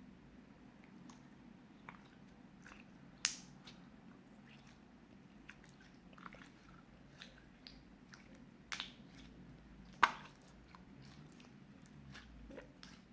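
Clear slime being kneaded and pressed by hand with small crystals mixed in, giving irregular sticky clicks and pops, three of them clearly louder than the rest.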